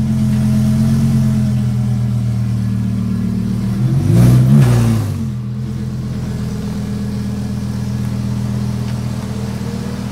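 Lamborghini Huracán's V10 idling steadily, with one quick rev about four seconds in that rises and falls back to idle.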